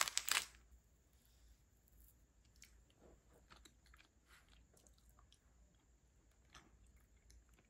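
Faint chewing of a soft, chewy yakgwa (Korean honey cookie), with scattered quiet mouth clicks and smacks. A short loud burst of noise comes right at the start.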